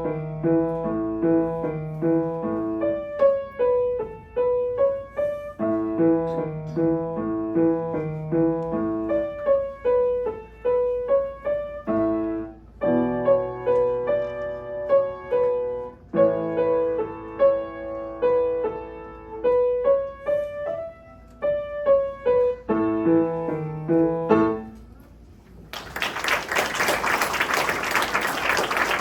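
Solo piano playing a student recital piece: a bouncy, repeating pattern of notes with a steady bass figure. It ends about 25 seconds in, and audience applause follows.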